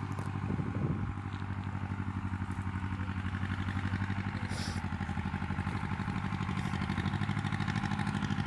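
Tractor engine running steadily with a fast, even chugging pulse.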